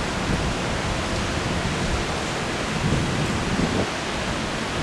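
Steady rain falling in a thunderstorm, an even hiss with an irregular low rumble underneath.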